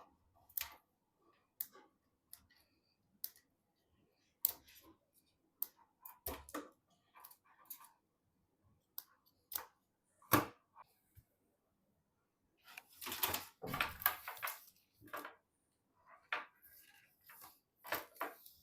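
Scattered sharp clicks and taps of small hardware being handled and fitted during PC assembly, with a longer stretch of scraping and rustling about two-thirds of the way through.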